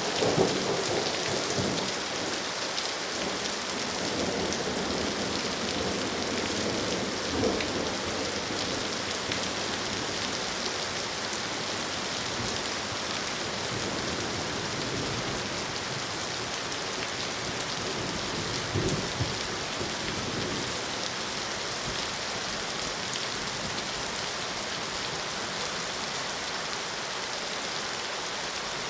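Steady rain falling, an even hiss of drops. A roll of thunder fades out over the first couple of seconds, and two brief low rumbles come about a quarter and two thirds of the way through.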